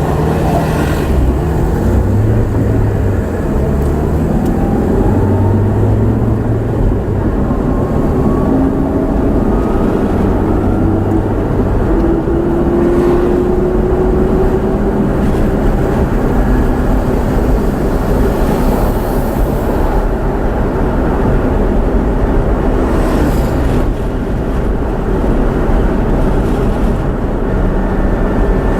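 A motor vehicle running: steady low engine and road noise, with an engine note rising slowly in pitch through the middle stretch.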